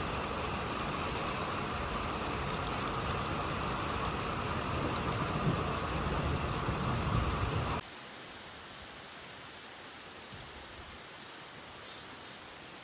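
Steady rain falling, with an even hiss that drops abruptly to a much softer level about eight seconds in.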